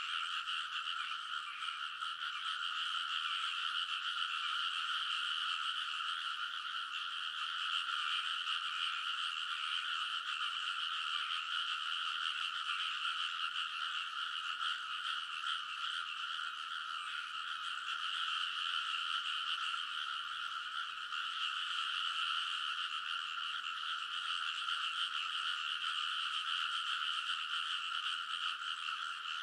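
A dense chorus of many rice-paddy frogs calling at once, their overlapping croaks merging into a steady, unbroken din.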